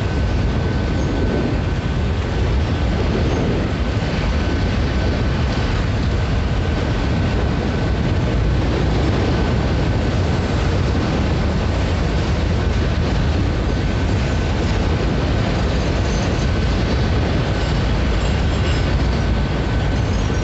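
Freight train of covered hopper cars rolling steadily past at close range: an unbroken, loud noise of wheels on rail, with a faint steady high tone running above it.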